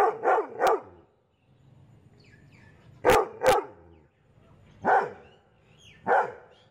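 Dog barking: three quick barks, a pause, two more, then two single barks.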